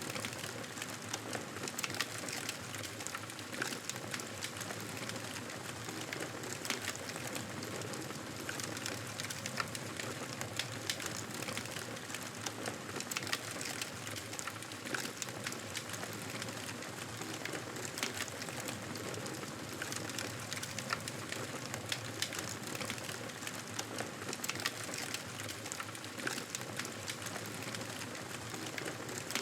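Wood fire crackling in a fireplace: frequent irregular snaps and pops over a steady hiss.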